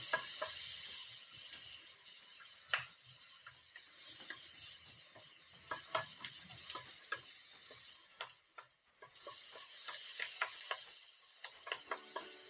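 Diced chicken and onions sizzling in oil in a stainless steel frying pan while a spatula stirs them, scraping and clicking against the pan at irregular intervals.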